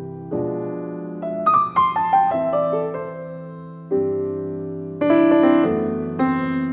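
Piano music: chords and short melodic runs, each note struck and fading, with fresh chords about a second in, near the four-second mark and at five seconds.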